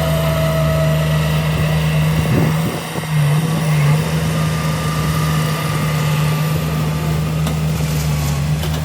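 Heavy earthmoving machine's diesel engine running steadily at a low, even drone, with a brief dip in level about three seconds in.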